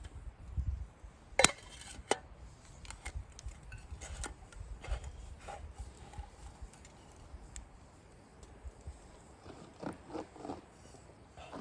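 Scattered clicks, clinks and knocks of camp cookware and utensils being handled, the sharpest knock about a second and a half in.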